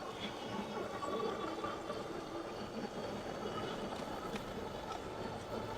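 Steady riding noise from an e-bike on pavement: rolling tyre and wind rush with a few faint steady high tones.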